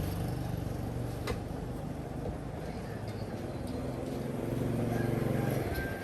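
Tractor engine running steadily, swelling slightly about four seconds in and easing off near the end.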